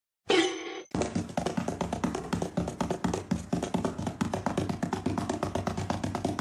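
Rapid, even tapping, about eight taps a second, after a short sound about half a second in.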